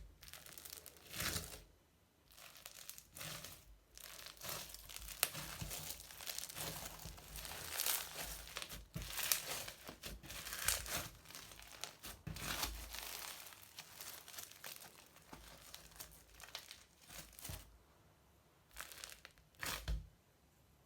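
Crunchy slime mixed with modelling foam being squeezed and pressed by hand, giving irregular crackling and crinkling that thins out near the end with two last crunches.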